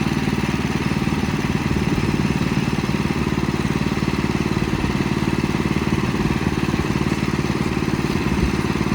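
Bushlander HM122 sawmill's engine running steadily at an even speed, with no change in pitch.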